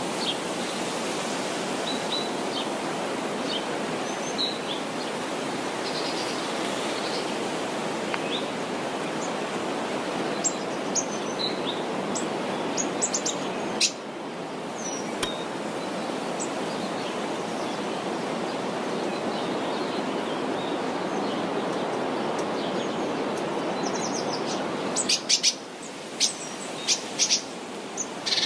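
Small birds chirping and calling now and then over a steady rushing background noise, with a quick run of sharp chirps near the end.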